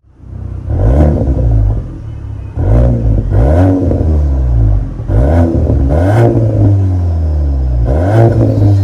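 Škoda Octavia RS with the EA888 evo4 2.0 TSI turbo four-cylinder, blipped about six times through an MS-R valved cat-back exhaust. Each short rev rises sharply and the engine note falls back slowly toward idle between blips.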